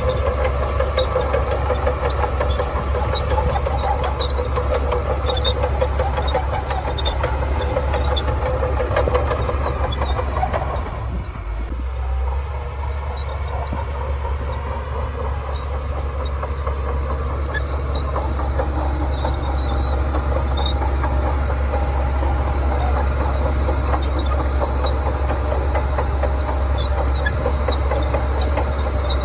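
Shantui DH17C2 bulldozer's diesel engine running steadily at working revs. Its note drops briefly about eleven seconds in, then picks back up.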